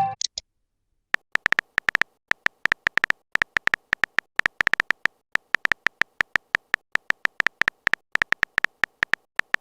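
Phone-keyboard typing sound effect of a chat-story app: a long run of short, high ticks at an uneven pace, about seven a second, starting about a second in.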